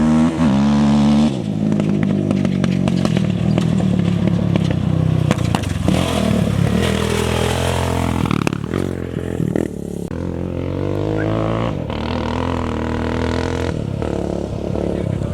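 Off-road racing engines running and revving, with a sharp rise in pitch at the start and shifting engine pitch through the rest.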